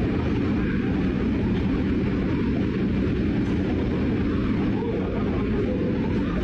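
Steady low rumble of a New York subway train at the station platform.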